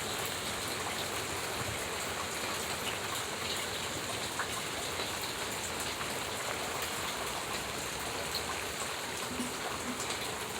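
Heavy rain falling steadily, a dense patter of drops hitting surfaces with scattered sharper drip ticks.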